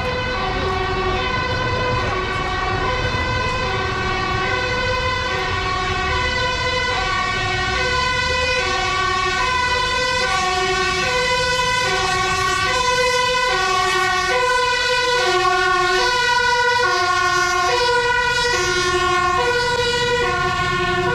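Emergency-vehicle two-tone siren, switching back and forth between a low and a higher note, each held for under a second, over low rumbling street noise.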